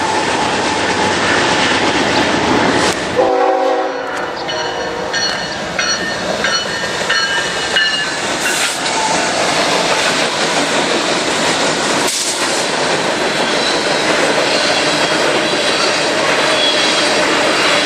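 Train rolling past at track side, its wheels clattering steadily over the rails. About three seconds in, a horn-like chord sounds briefly, followed by a few seconds of broken high tones.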